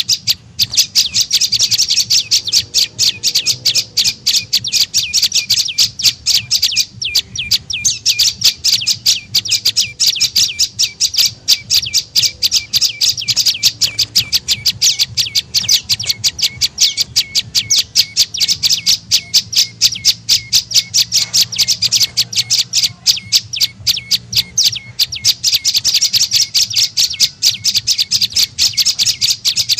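Prenjak lumut (a prinia) call used as a bird-catching lure: an unbroken run of short, sharp chirps, about five a second.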